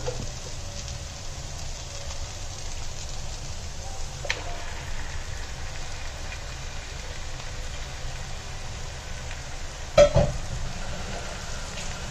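Onion-tomato masala frying in a nonstick pan with a steady sizzle as raw chicken pieces are added. A soft knock comes about four seconds in and a louder, sharp knock near the end.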